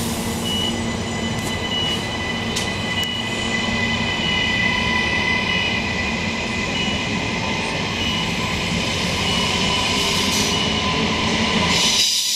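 Electric passenger train running past on the far track, heard through the open doors of a stationary train in an enclosed station: a steady rush of wheel and running noise with faint high squealing tones. Near the end the deeper part of the noise cuts off sharply and a higher hiss is left.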